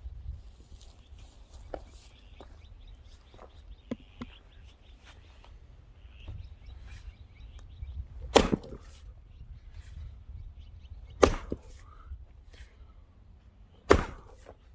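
Three loud, sharp wooden strikes about three seconds apart, each splitting into a hard log, with fainter knocks and taps between them.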